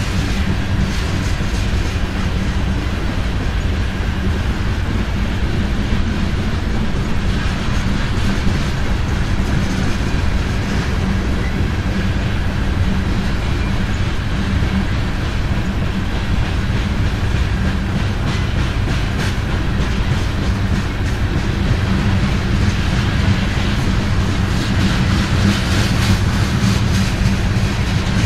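A long train of loaded coal hopper cars rolling past: a steady sound of steel wheels on rail, with the clickety-clack of wheels over rail joints, more of it near the end.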